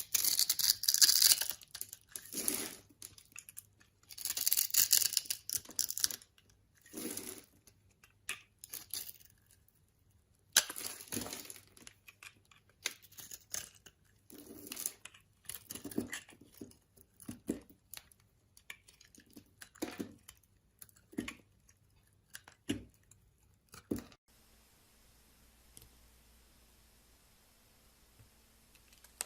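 A blade cutting and scraping into a bar of soap in a series of separate strokes, the longest and loudest in the first few seconds, then shorter cuts. Near the end the cutting stops, leaving about five seconds of faint steady hiss.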